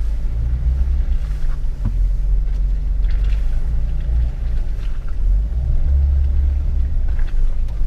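Jeep's engine and drivetrain rumbling low as it crawls through an off-road trail obstacle, swelling and easing with the throttle, heard from inside the cab.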